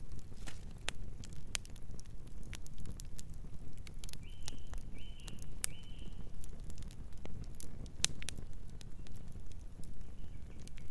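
Wood fire crackling, with irregular sharp pops over a low, steady rumble of flame. A distant bird gives three short calls between about four and six seconds in, and one faint call near the end.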